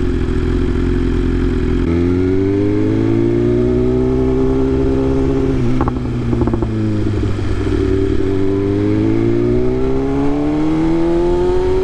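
BMW S1000RR inline-four engine accelerating hard. Its pitch rises, breaks with a short clatter and drops about six seconds in at a gear change, then rises again.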